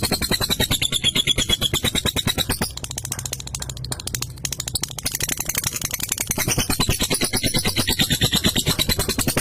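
Lovebird chattering in a long 'ngekek' run: a fast, unbroken string of high, shrill chirps, many per second. It dips quieter for a couple of seconds about three seconds in, then picks back up to full strength.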